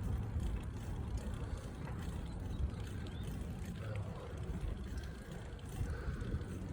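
Riding noise of a moving bicycle: a steady, low rumble with no clear beat.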